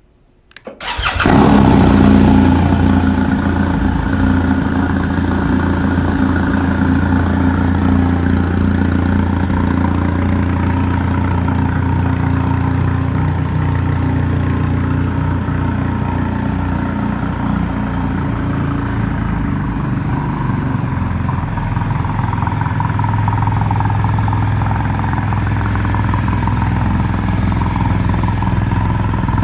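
BMW R1250GS Adventure's boxer-twin engine starting through an Austin Racing exhaust with its dB killer fitted: it catches about a second in, blips up briefly, then settles into a steady idle with a fairly subdued exhaust note.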